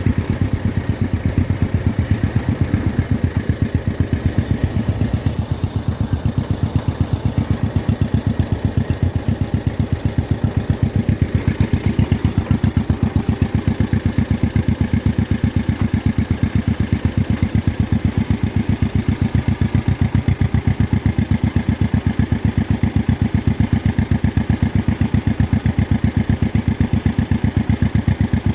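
1953 John Deere 40's two-cylinder engine running at a steady speed, its exhaust popping in an even, rapid beat.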